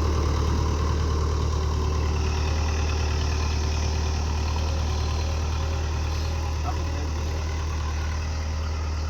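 Tractor engine idling steadily, a low even drone.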